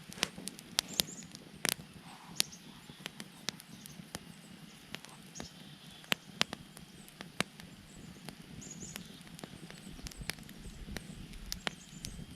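Campfire crackling, with sharp, irregular pops of burning wood about once or twice a second over a low hiss.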